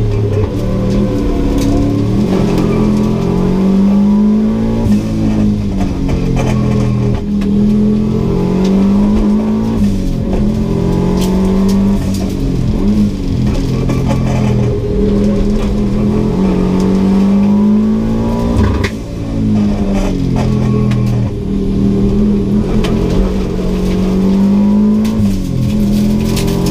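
Subaru GC8 WRX's turbocharged flat-four engine under hard acceleration, heard from inside the cabin: the revs climb and drop again and again as it is driven through the gears, with a brief lift about two-thirds of the way through.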